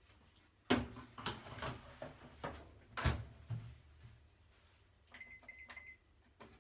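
Kitchen clatter: several knocks and clunks in the first half, then an electronic appliance beeping a few times in quick succession about five seconds in.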